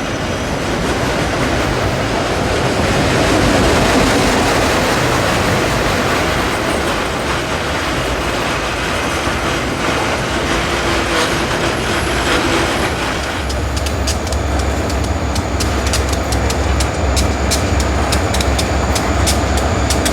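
Freight train rolling past, its wheels running over the rails. About two-thirds of the way through the sound turns to a heavier low rumble with a rapid run of sharp clicks.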